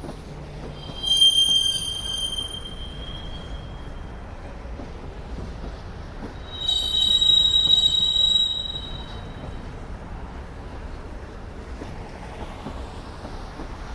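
Freight train rolling past with a steady low rumble, broken twice by high-pitched steel wheel squeal on the rails, about a second in and again from about six and a half seconds, each lasting two to three seconds.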